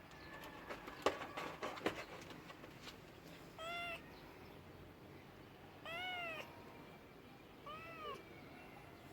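A cat meowing three times, short high meows that rise and fall in pitch. A quick flurry of clicks and knocks comes about a second in, louder than the meows.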